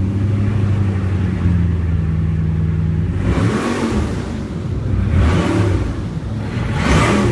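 Bugatti Chiron's quad-turbocharged 8.0-litre W16 engine idling steadily, then revved three times in the second half, each rev rising in pitch and falling back.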